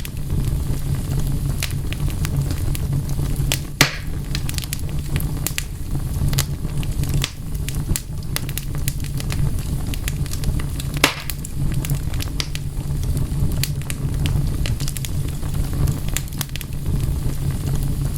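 Wood fire crackling, with many small scattered pops over a steady low rumble, and two louder pops about four seconds in and about eleven seconds in.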